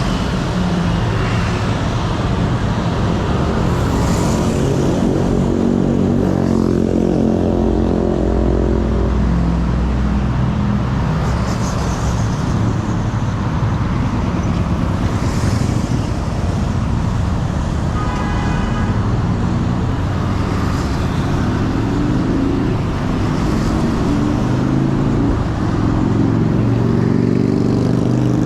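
City street traffic heard from a bicycle: car and motorcycle engines running close by over steady road noise, with engines louder at the start and again near the end.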